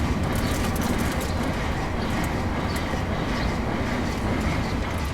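LNER Azuma (Class 801) train passing over the level crossing, a steady noise of wheels on rail throughout.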